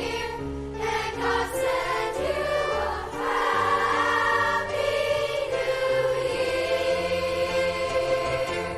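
Choir singing with instrumental accompaniment, ending on a long held note.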